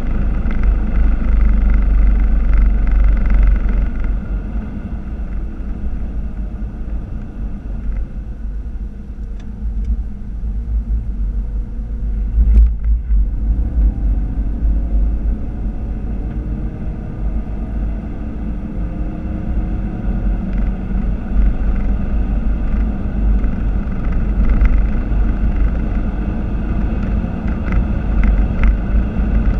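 Ford Focus RS mk3's turbocharged 2.3-litre four-cylinder heard from inside the cabin at racing speed, with wind and road noise. It is loud under throttle at first and eases off for several seconds. About halfway there is a sharp knock, then the engine climbs steadily through the revs and stays loud to the end.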